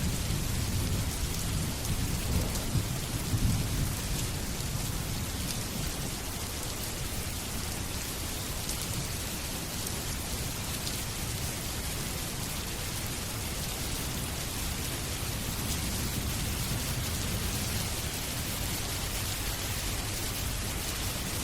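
Steady, even rainfall, with a low rumble of thunder over the first few seconds.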